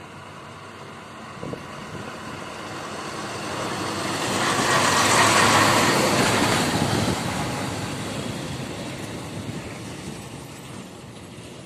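A truck drives past on the road: its noise swells to a peak about halfway through, then fades away.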